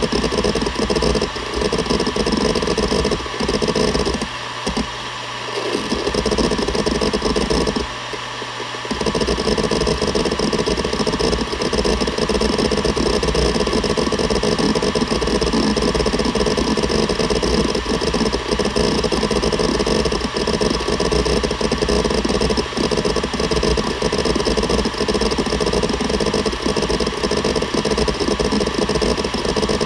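Seagate Barracuda ES.2 ST31000340NS 7200 rpm hard drive seeking continuously, a dense rattle of head movements over the steady hum of the spinning platters. The seeking stops briefly twice, about four seconds in and again about eight seconds in, leaving only the spindle hum.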